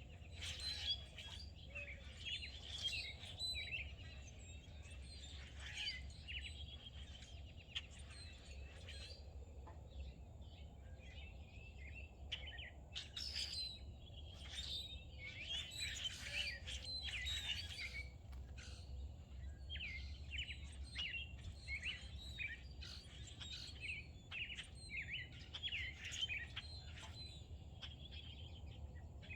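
Several songbirds chirping and singing over one another in a continuous chorus of short calls and trills, with a steady low rumble underneath.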